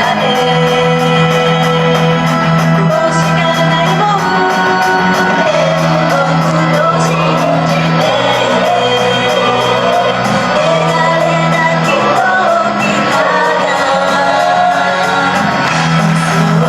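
Upbeat Japanese idol pop song playing over a PA system, with a woman singing and the audience shouting and whooping along.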